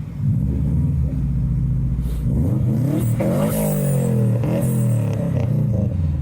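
Modified car engine running loud as a car leaves, the revs rising a little after two seconds in and then falling away.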